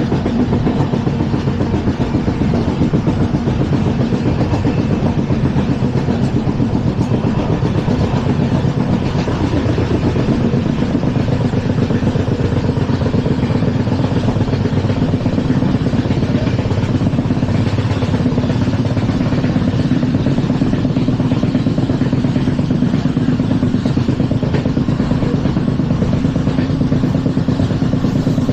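LHB passenger coach running at speed on the track: a loud, steady rumble and rattle of wheels on rail.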